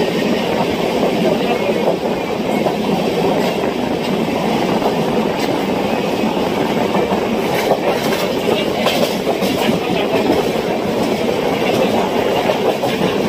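Express train running at speed, heard at an open coach door: a steady rumble of steel wheels on the rails, with a few sharp clacks around the middle.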